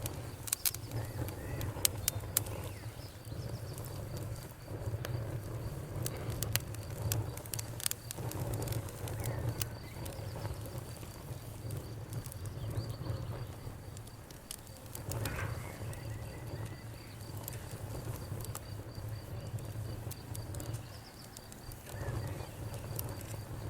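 Campfire crackling: scattered sharp pops and snaps, thickest in the first few seconds, over a steady low rumble of burning flames.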